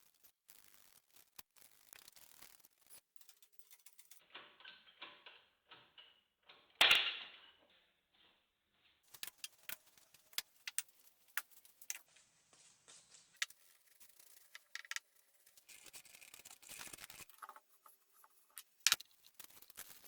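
Scattered light clicks and clinks of small hard objects being handled, with one louder knock about seven seconds in.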